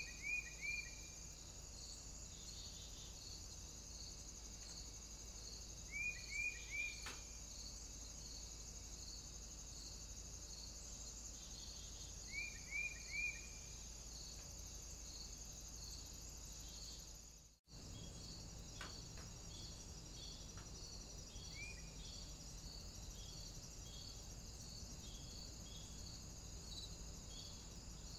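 Bird calls: short, clear, falling chirps in quick groups of three, three times about six seconds apart and once singly later on, over a steady high-pitched hiss with a regular pulsing tone. The sound drops out completely for a moment about two-thirds of the way through.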